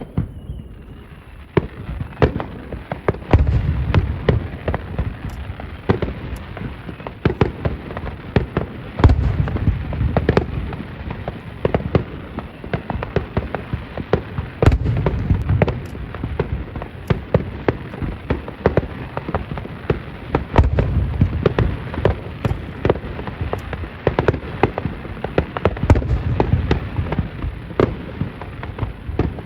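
Aerial fireworks bursting in a rapid, continuous barrage: many crackling bangs, with heavier booms about every five or six seconds.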